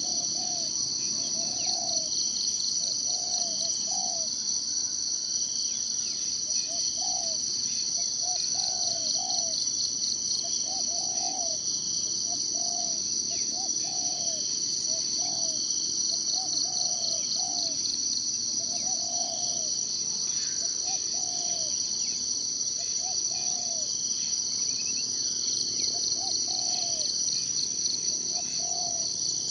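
A steady high-pitched insect chorus of crickets or cicadas buzzes continuously with a fine pulsing texture. Beneath it, a short low call repeats roughly once a second throughout.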